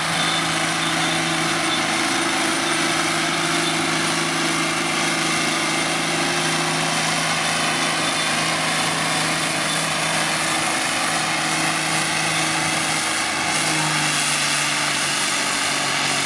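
Engine of a pulling truck or tractor running hard with a steady drone, its pitch dipping briefly about thirteen seconds in and then coming back up.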